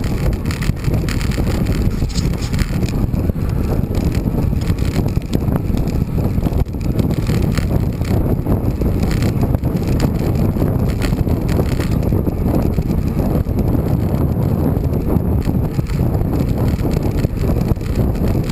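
Wind buffeting the microphone of a rider on a moving bicycle: a loud, steady low rumble.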